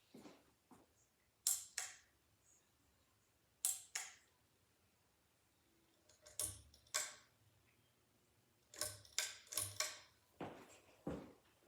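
A series of sharp clicks at irregular intervals, some in quick pairs, with quiet between them.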